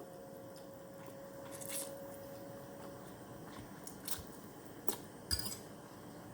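Quiet eating sounds from a mukbang of instant noodles: a few short mouth and utensil clicks and smacks scattered over a faint steady hum.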